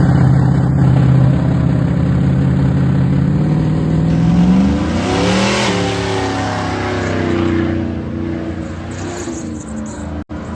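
Burnout truck's engine running hard at high revs, climbing in pitch about four seconds in, then easing off and falling back.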